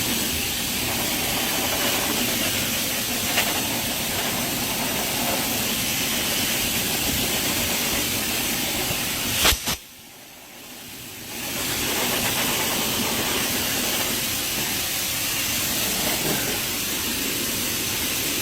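High-velocity pet hair dryer blowing on high with its heater on: a loud, steady rush of air. About halfway through there is a click, the noise briefly drops away, then it builds back up.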